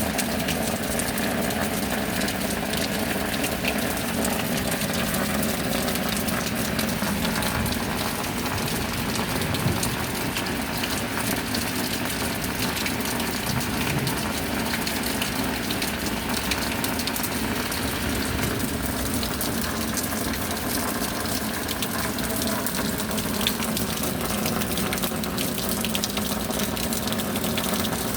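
Steady rain falling: an even rushing wash with many small, irregular drop ticks throughout.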